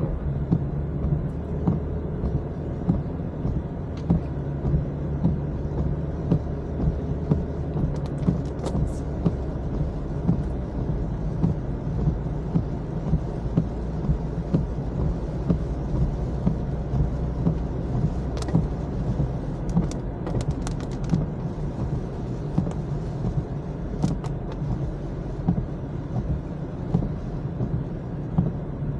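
Car interior while driving on a wet road: a steady low rumble of engine and tyres, with a regular beat about every 0.7 seconds and scattered faint ticks.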